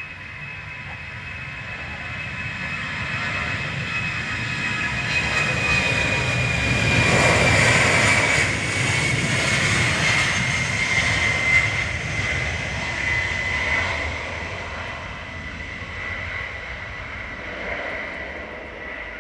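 Jet aircraft engines passing by. The noise swells to its loudest about seven to eight seconds in and then fades, carrying a high whine that slowly falls in pitch as the plane goes past.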